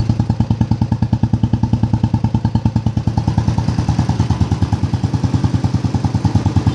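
Royal Enfield Classic 350 BS6 single-cylinder engine idling through an aftermarket Indore silencer, giving a steady, even dug-dug thump like an old Bullet.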